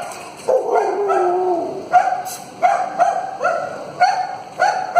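A dog barking. A long drawn-out call falls in pitch between about half a second and two seconds in, followed by a run of short barks about two a second.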